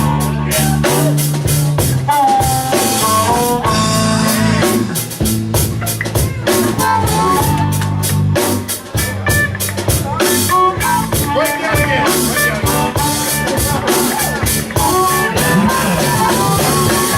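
Live blues band playing an instrumental passage: a drum kit keeps a steady beat under bass and electric guitar lines.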